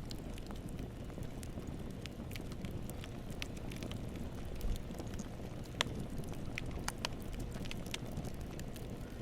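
Campfire burning with a steady low roar of flames and scattered sharp crackles and pops of burning wood.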